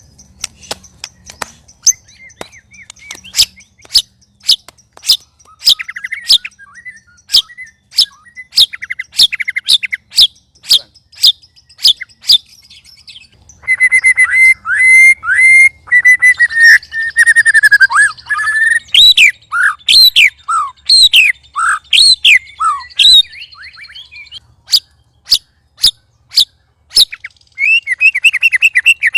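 Murai batu (white-rumped shama) calling loudly while set against rival birds: a string of sharp clicking ticks, then from about halfway a rapid burst of song with falling whistles, then more ticks near the end. These are the agitated calls of birds provoked by rivals.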